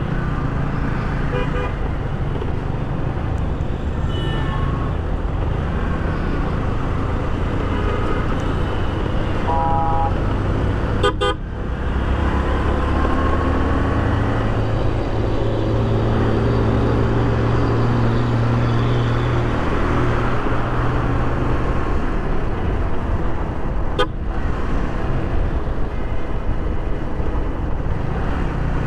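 Riding on a road in traffic: a steady rumble of wind and engine, with several short vehicle horn toots, the clearest about ten seconds in.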